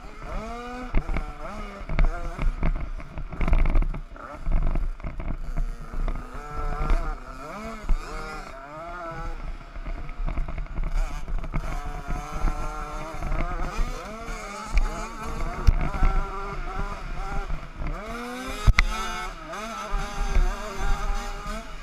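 Several 50cc youth motocross bikes racing, their small engines revving up and dropping off again and again as they work around the track.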